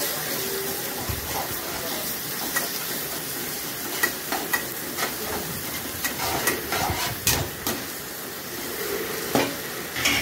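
Eggs frying and sizzling in a black pan with tomato-onion masala while a metal spatula stirs and scrapes them. Sharp taps of the spatula against the pan come through the steady sizzle, more often from about four seconds in.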